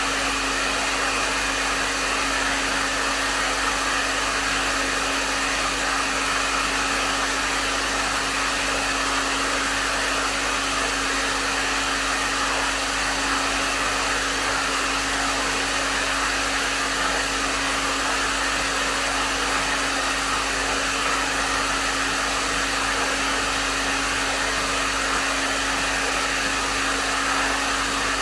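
Hair dryer running steadily at a medium setting: an even rush of air with a constant motor hum underneath.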